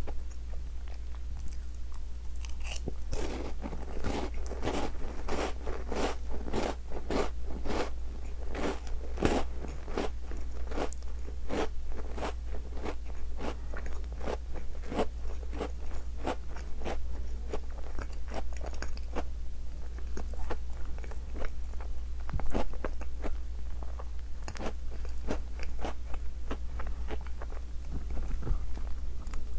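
Close-up biting and chewing of a chocolate-coated Tim Tam biscuit: dense, crisp crunching for the first third, thinning to sparser, softer chewing for the rest.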